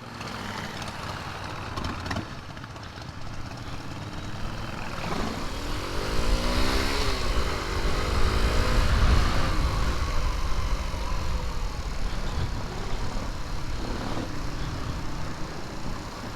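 Riding on a Honda C90 motorcycle, its small single-cylinder four-stroke engine running under steady wind rush. About five seconds in the engine note rises, then falls away again by around the nine-second mark.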